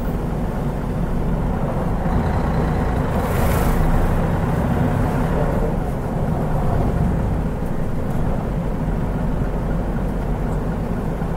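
Mitsubishi Fuso Aerostar KL-MP37JK city bus running, its turbocharged 6M70 six-cylinder diesel engine heard from inside the cabin. There is a brief hiss about three seconds in.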